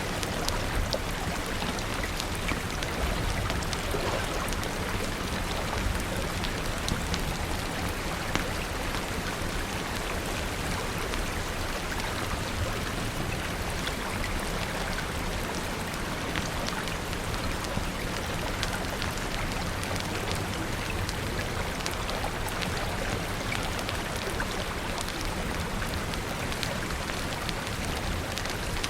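Steady rain falling, an even hiss with many scattered light ticks of drops.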